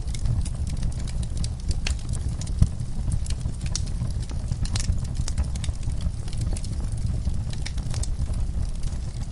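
Wood fire crackling: scattered sharp pops and snaps over a steady low rumble, with one louder pop about two and a half seconds in.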